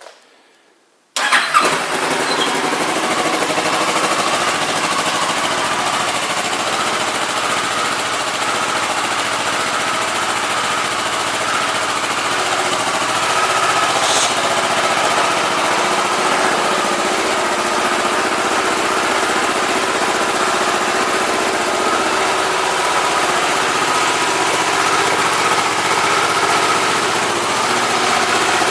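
2009 Kawasaki ER-6n's 649 cc parallel-twin engine starting about a second in, catching at once and then idling steadily.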